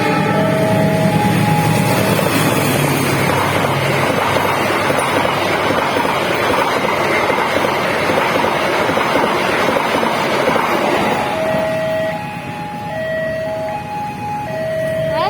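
A train passing over a level crossing, the wheels on the rails making a loud, even rumble for about eleven seconds. As it clears, the crossing's warning alarm is left alone, two tones alternating steadily.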